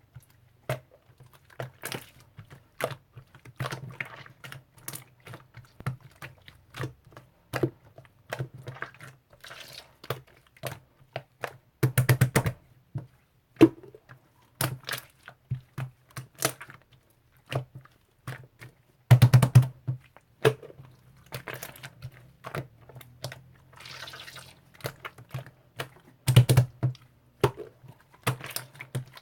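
Irregular light clicks and taps, with louder clattering clusters about twelve, nineteen and twenty-six seconds in, over a faint steady low hum.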